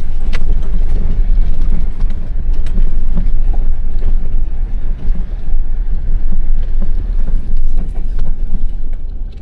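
A working machine's engine running steadily, a loud low rumble, with a few faint clicks over it.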